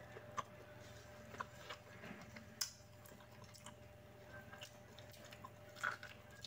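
Faint chewing and biting of boiled corn on the cob: scattered soft clicks and mouth smacks, with a sharper one about two and a half seconds in, over a low steady hum.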